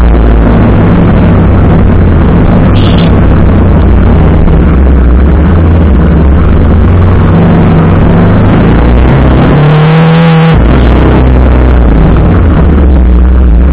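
TVS Apache RR 310's single-cylinder engine running as the bike is ridden, under a loud, steady rushing noise. About ten seconds in, the engine note rises briefly as it revs up.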